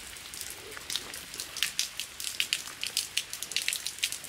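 Heavy rain pouring down, a steady hiss with many irregular sharp drop hits close by.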